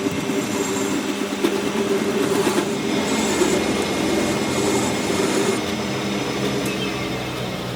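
Workshop machinery running steadily with a rattling mechanical drone that eases about five and a half seconds in to a smoother hum.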